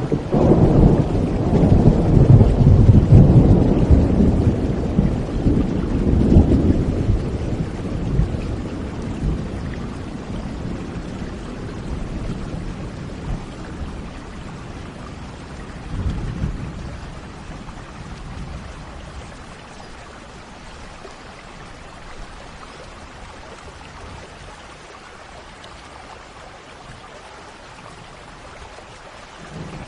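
Thunderstorm with rain: a long rolling peal of thunder, loudest in the first few seconds and fading away over about ten seconds, then a shorter rumble about halfway through, over steady rainfall. Another rumble begins at the very end.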